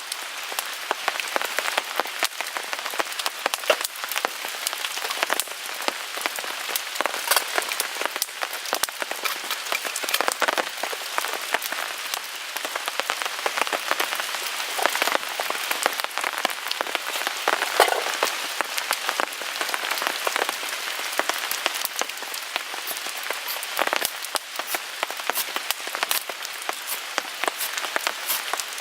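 Rain falling on a tarp over a small wood fire in a Picogrill 398 fire pit: a steady patter with many sharp crackles and pops.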